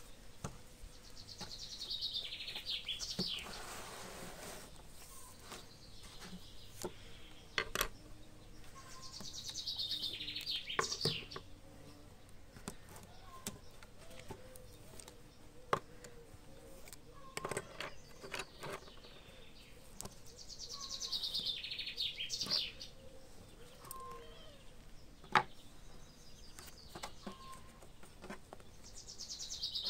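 A songbird singing a short, quick descending trill that ends in a flourish, repeated about every ten seconds. Between the songs come scattered clicks and taps of pencils, pens and an eraser being set down on a wooden table, the sharpest about 25 seconds in.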